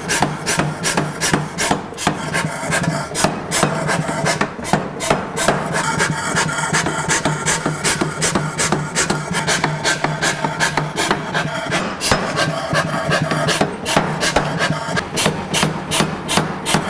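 Repeated hammer blows forging a hot Damascus steel billet, about two or three strikes a second, over a steady hum.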